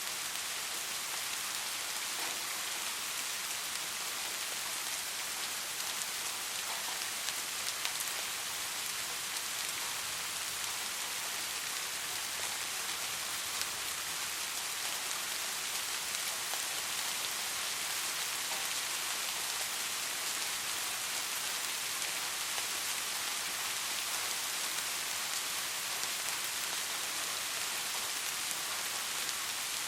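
Steady rain falling, a dense even hiss with many small drop ticks spread through it.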